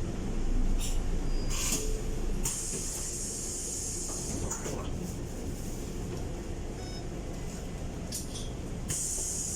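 Steady low engine and road rumble inside a Scania K230UB bus, with a few clicks in the first two seconds. A high compressed-air hiss comes in about two and a half seconds in for two seconds, and again near the end.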